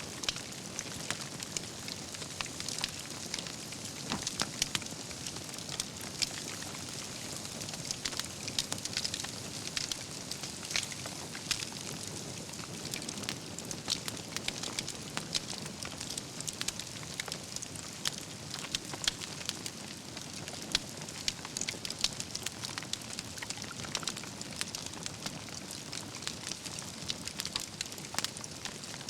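Wood fire burning with a steady hiss and frequent crackles and pops from the burning logs.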